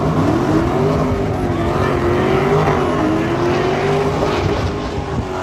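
Drift car's engine revving hard, its pitch rising and falling over and over as the throttle is worked.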